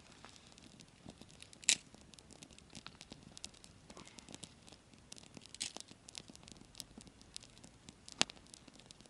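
Campfire crackling: scattered small snaps of burning wood, with a louder pop about two seconds in and another near the end.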